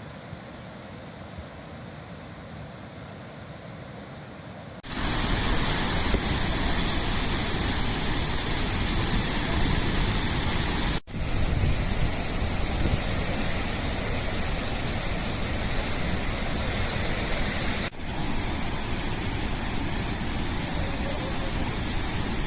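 Floodwater released through the Srisailam dam's spillway gates, a steady rushing noise that jumps much louder about five seconds in.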